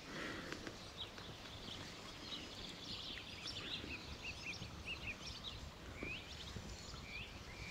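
Small birds chirping: a run of short quick notes through the middle, then a few upward-sweeping calls near the end, over a faint steady background.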